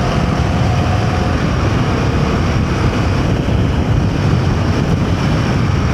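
Royal Enfield Himalayan 450's single-cylinder engine running steadily while riding a dirt track, with steady wind rush over the microphone.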